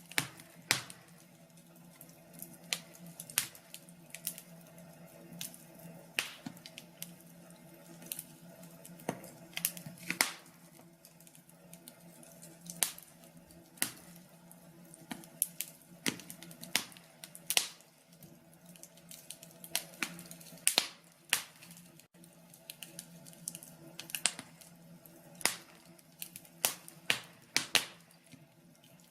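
Wood fire crackling, with irregular sharp pops and snaps, some in quick clusters, over a faint steady low hum.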